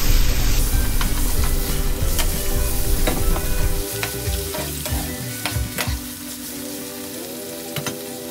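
Diced pork and minced garlic sizzling in a nonstick frying pan while a metal spoon stirs and scrapes them, with sharp clicks of the spoon against the pan. The stirring stops about halfway through, and a quieter sizzle goes on.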